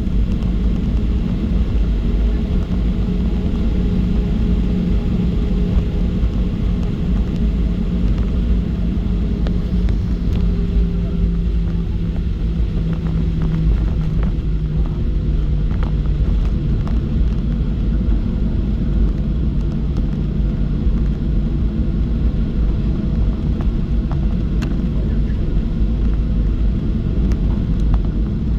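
Cabin noise of a Boeing 737-700 taxiing on the ground: a steady low rumble with the drone of its CFM56-7B jet engines at taxi power, the hum dropping slightly in pitch partway through.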